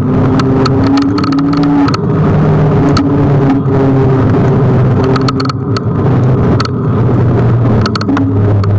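Ride noise from a Kugoo G1 electric scooter on the move: a loud, steady rumble with low tones that shift in pitch, broken by frequent sharp clicks and rattles.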